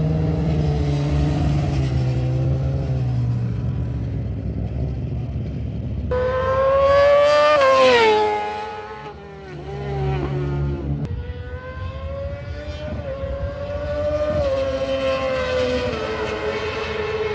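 High-displacement racing motorcycle engines revving and accelerating. The loudest moment comes about six to eight seconds in, when a high engine note climbs in pitch, then drops and fades. Further engine notes rise and fall through the rest.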